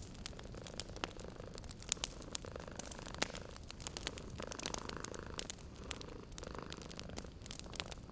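A cat purring steadily under the crackle of a wood fire, with many sharp pops and snaps scattered throughout.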